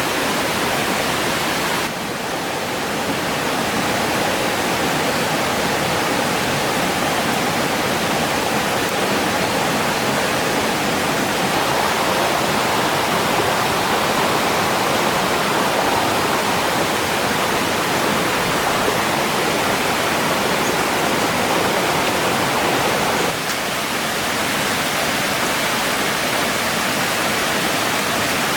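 Steady rush of flowing water, like a stream or small cascade, with brief shifts in tone about two seconds in and again near the end.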